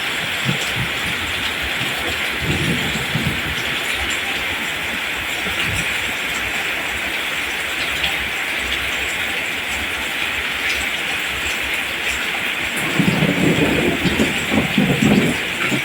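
Steady rain falling on rice plants, a continuous hiss of drops, briefly louder and lower for a couple of seconds near the end.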